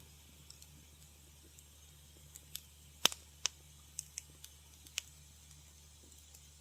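Wood fire crackling: scattered sharp pops and snaps, a quick cluster of them in the middle with the loudest a little after three seconds, over a steady low hum.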